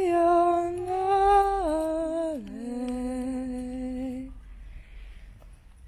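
A person humming a slow melody in long held notes that step down in pitch, stopping about four seconds in.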